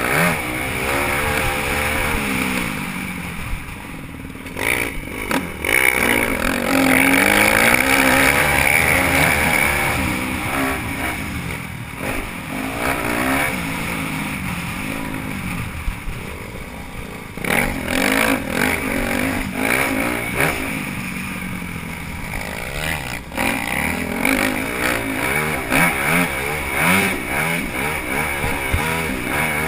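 Dirt bike engine revving up and down repeatedly as it is ridden hard around a motocross track, with sharp knocks or buffets breaking in here and there.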